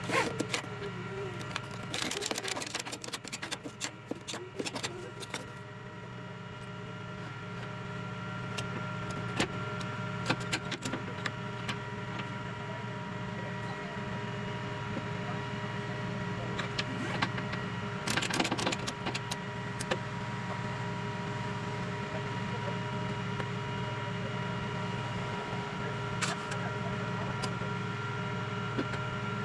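Tow truck driving with a car loaded on its bed, heard from inside the cab: steady engine and road drone with a few steady whining tones. Bursts of rattling come about two seconds in and again around eighteen seconds.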